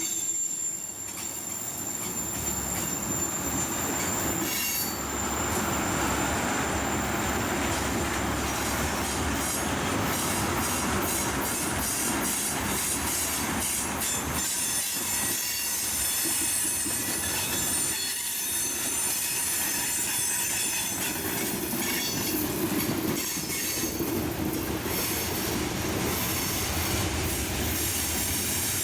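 A train rolling past, its steel wheels squealing against the rails in high thin tones over a steady rumble, with some clickety-clack of the wheels over rail joints.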